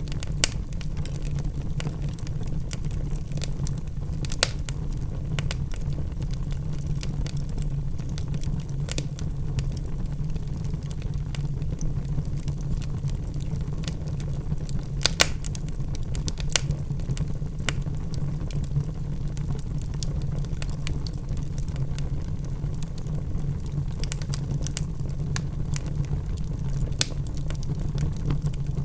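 Logs burning in a fireplace: a steady low roar of flames under scattered crackles and pops from the wood, with a handful of louder pops standing out.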